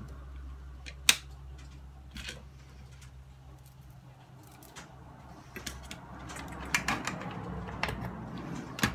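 Scattered clicks and taps from handling a portable radio and plugging in its power adapter, with one sharp click about a second in and a cluster of clicks near the end. A low hum runs under the first half and fades out.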